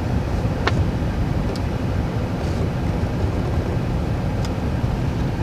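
2002 Chevy Avalanche's 5.3 L Vortec V8 idling steadily while it warms up, a low rumble heard from inside the cab, with a few faint light clicks.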